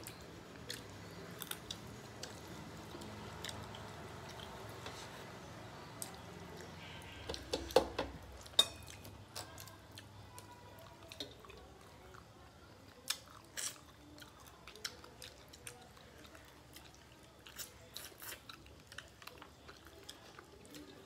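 Eating by hand from steel plates: chewing with lip smacks and small clicks as rice and fish curry are mixed and eaten, the two loudest smacks a little under eight seconds in. A low steady hum runs underneath.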